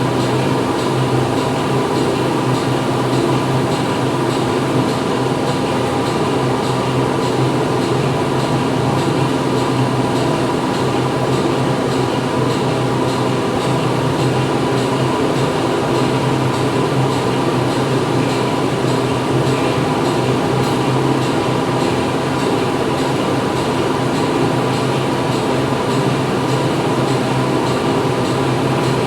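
Machinery running steadily inside a factory: a loud, unbroken industrial hum with several steady tones over a dense mechanical noise, with no pauses or changes.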